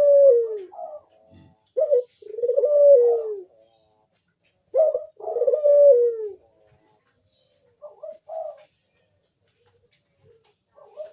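Ringneck dove (burung puter) cooing: three loud coos about every three seconds, each a short sharp note then a long note that falls away, followed by two fainter, shorter coos.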